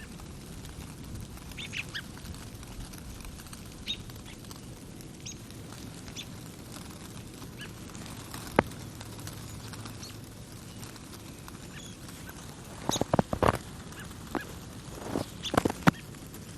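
Birds calling with short, scattered chirps, then footsteps crunching in snow, a quick run of steps starting near the end.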